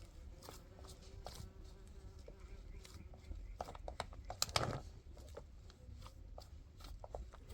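Scattered light knocks and taps, with a louder clatter about four and a half seconds in.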